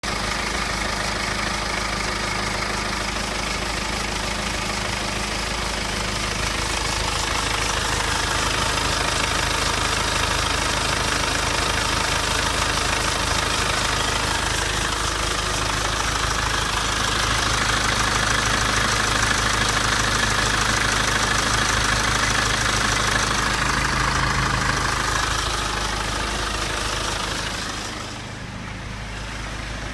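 BMW N47 2.0-litre four-cylinder diesel in a 320d running at idle, with a scraping, rattling sound in its steady running that the owner suspects could be timing chain rattle. The sound grows louder after about eight seconds and drops off near the end.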